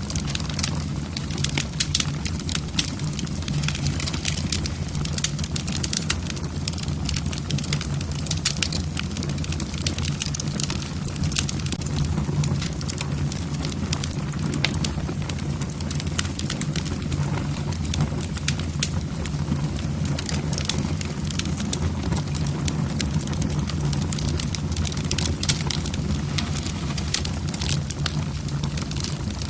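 Log fire in a fireplace crackling, with many irregular sharp pops and snaps of burning wood over a steady low rumble.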